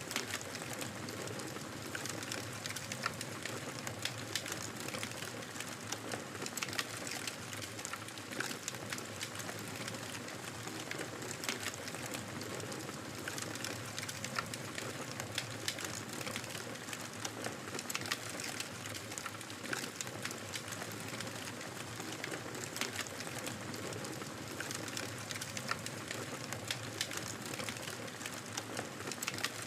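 Wood fire crackling in a fireplace: a steady hiss of burning with frequent irregular sharp pops and snaps.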